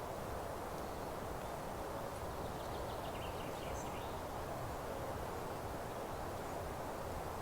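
Outdoor meadow ambience: a steady rustling hiss with a few faint bird chirps in the middle.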